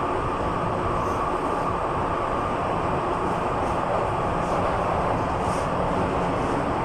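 Inside the carriage of an MTR M-Train running at steady speed through an underground tunnel: a continuous, even rumble of wheels on rail and train running noise.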